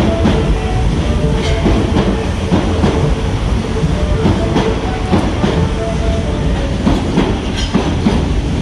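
Osaka Metro 30000-series subway train moving through the station platform: steady loud running noise with a rapid clatter of wheels over rail joints and a faint steady electric hum.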